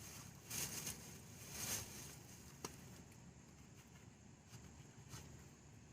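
Faint rustling and patter of soil and sweet potato vines as the bed is dug through for tubers, with a small click about two and a half seconds in.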